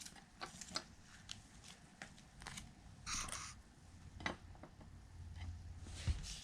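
Baseball trading cards being handled and flipped through by hand: faint scattered clicks and flicks, with a short rustle about three seconds in.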